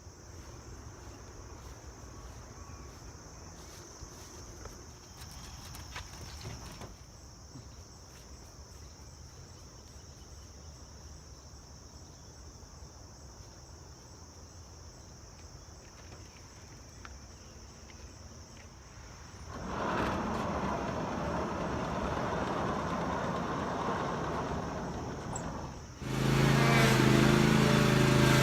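Insects chirring steadily in a high, unbroken band over a quiet outdoor background. About twenty seconds in, a louder rushing noise comes up; near the end it cuts to a small engine running loudly with a steady hum, the lawn tractor's engine.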